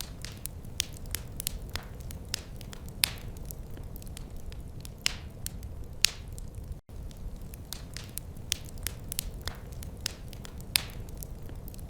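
Wood fire crackling in a fireplace: irregular sharp pops and snaps over a steady low rumble of the burning fire, with a momentary dropout about seven seconds in.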